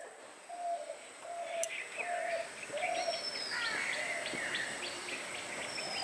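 Birds calling: a short mid-pitched note repeated about twice a second, with higher chirps and falling whistles joining about halfway through.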